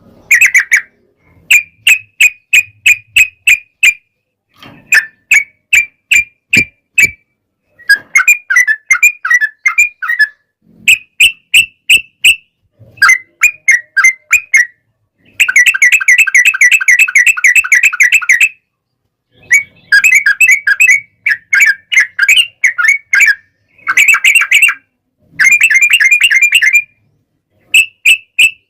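Yellow-vented bulbul (trucuk) calling in rapid chattering runs of sharp repeated notes. There are about a dozen bursts of a second or two each, separated by brief pauses, with a longer, denser run about halfway through.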